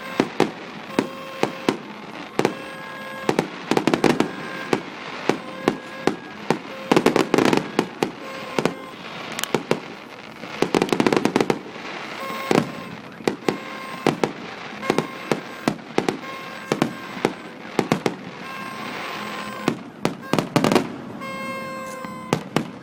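Fireworks going off: a rapid series of sharp bangs and pops, several a second, with denser bursts of crackling at intervals.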